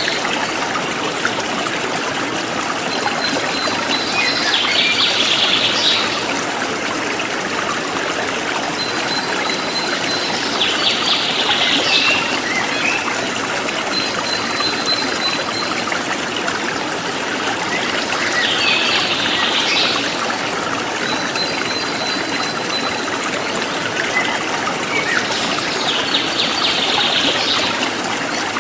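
Forest stream flowing with a steady rush of water. Over it a songbird sings four times, about every seven to eight seconds, each song a thin high held note followed by a quick trill.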